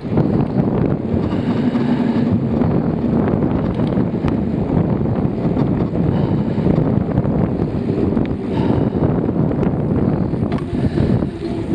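Wind buffeting the microphone on a moving bicycle: a loud, steady, rumbling rush that rises and falls slightly.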